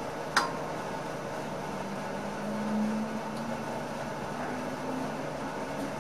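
Cab interior of an NS ICM electric train: steady running noise with a low hum that rises slightly in pitch and swells briefly about two and a half seconds in, and one sharp click about half a second in.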